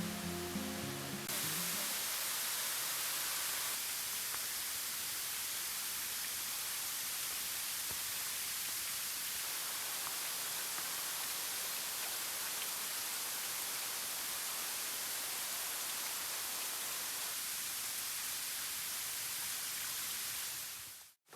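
Steady, even rush of a waterfall's falling water, with no rhythm or pitch. Guitar music fades out in the first two seconds, and the water sound cuts off abruptly just before the end.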